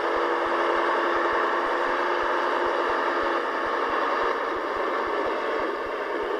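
Scania 143H 450 truck's V8 diesel engine running steadily, with a faint steady tone over it that stops about three and a half seconds in. The sound eases a little just after four seconds.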